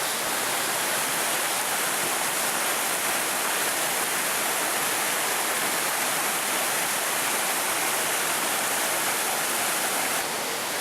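Mountain creek rushing steadily over rocks in small cascades, a dense, even roar of running water that eases slightly near the end.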